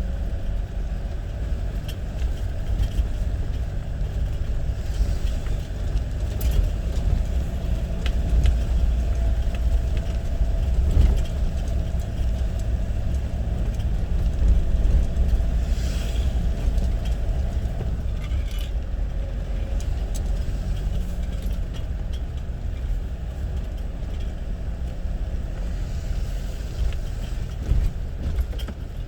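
A motor vehicle driving, with a steady low rumble of engine and road noise and scattered small rattles.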